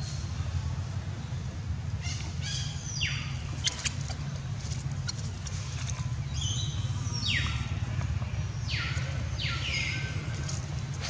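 Bird calls: several short whistles that each drop steeply in pitch and then level off, coming in pairs from a couple of seconds in. Under them runs a steady low rumble.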